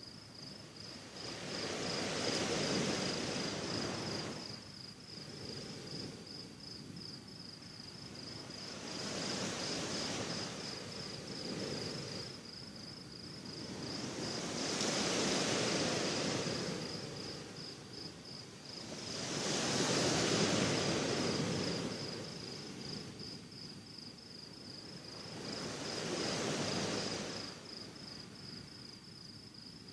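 Sea waves breaking and washing up on the shore: five swells of surf, each rising and falling away over a few seconds, about every five to six seconds. A faint, steady, high, fast-pulsing trill runs underneath.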